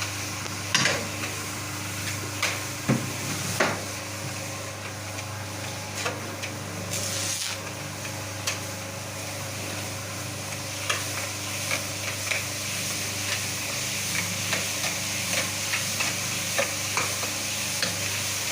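Semi-dry floor screed being worked: a steady machine hum under a constant scraping hiss, with irregular short knocks, several close together in the first few seconds.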